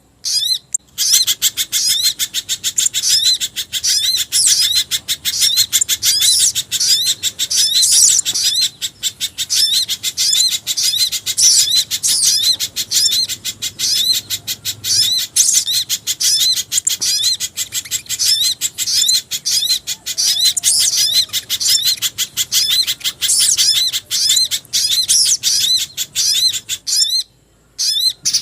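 Bird-lure recording mixing the calls of pijantung gunung (a spiderhunter), sogon and jingjing batu: dense, rapid, high-pitched chirping repeated many times a second, with brief pauses about a second in and near the end.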